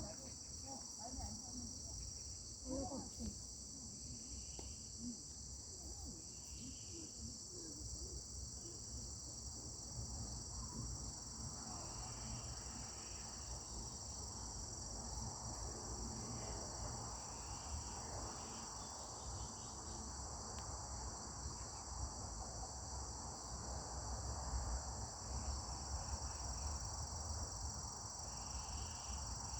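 Steady, high-pitched chorus of crickets and other insects, with a low rumble underneath.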